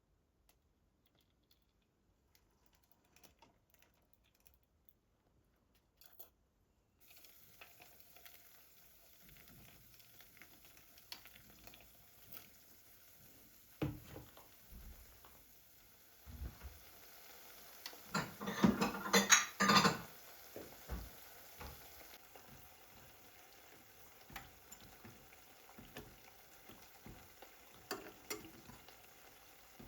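Kitchen handling sounds after a near-silent start: scattered light clicks and taps of utensils and dishes, with a short burst of loud clattering about two-thirds of the way through.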